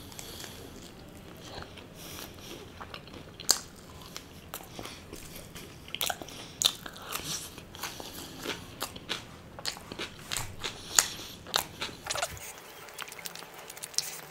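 Close-miked biting and chewing of crisp, flaky chur chur naan: many short, sharp crunches at an irregular pace, the sharpest about three and a half seconds in and coming thicker in the second half.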